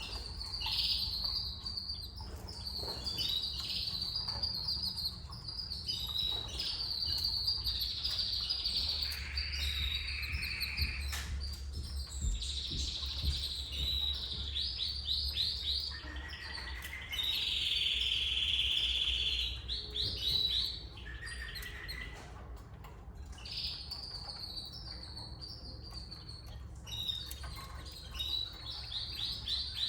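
Canaries calling: a run of short chirps and quick trills, with two longer hissing, raspy passages, one about nine seconds in and one around seventeen seconds.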